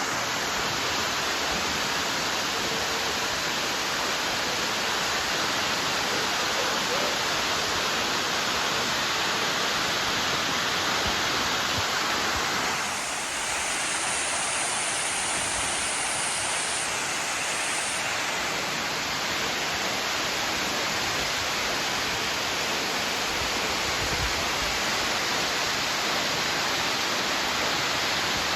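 Waterfall, a steady rush of falling water; the tone shifts briefly about halfway through.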